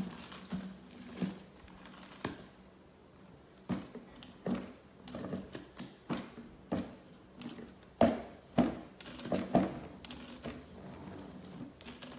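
Irregular light knocks and clicks, one or two a second, loudest about two thirds of the way through.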